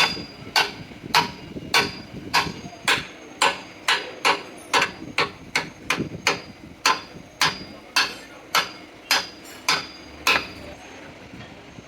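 Steady hammering on metal, about two hard blows a second, each with a short metallic ring, stopping about ten seconds in.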